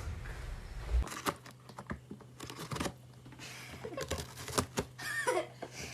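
Irregular sharp clicks and crinkling, with a short gliding pitched call about five seconds in.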